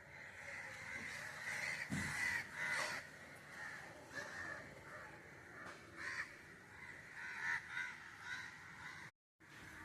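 Birds calling again and again over outdoor background, broken by a short gap of silence near the end.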